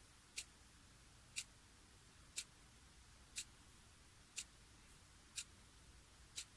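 Clock ticking steadily, one short tick each second, every tick the same.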